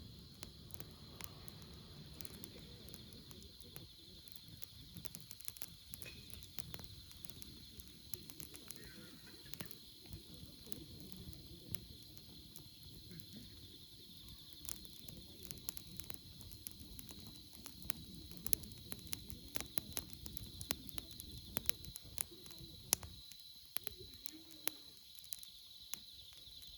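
Wood campfire crackling with irregular sharp pops, over a steady high-pitched insect chorus.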